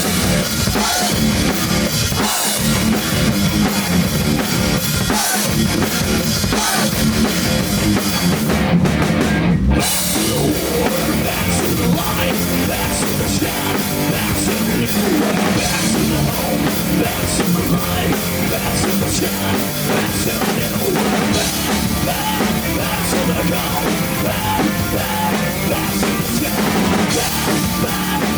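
A rock band playing loud, with a driving drum kit, and a brief break about nine to ten seconds in.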